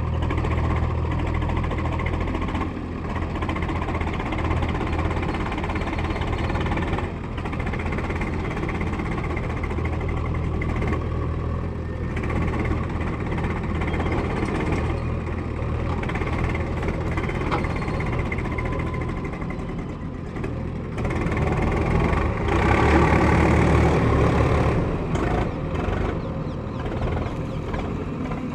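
Tractor diesel engine running steadily, growing louder for a few seconds past the middle before settling back.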